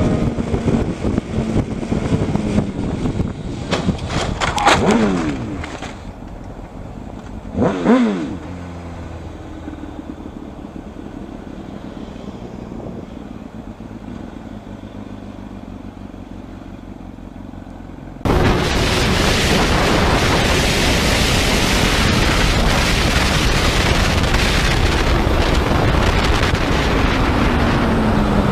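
Motorcycles passing by, the engine pitch falling as each goes past, twice in the first eight seconds. About eighteen seconds in, the sound cuts suddenly to a loud, even rushing noise.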